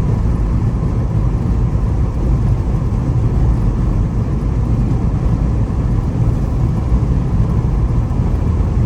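Steady low rumble of a Jeep driving, heard inside its cabin: engine and road noise with no distinct events.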